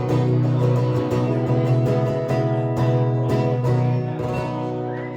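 Acoustic guitar strumming the closing chords of a song, the last chord left to ring out from about four seconds in.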